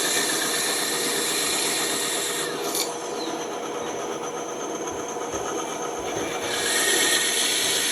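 Bandsaw running and cutting through wood: a steady motor hum under the hiss of the blade in the wood. The cutting noise eases for a few seconds midway and grows again near the end.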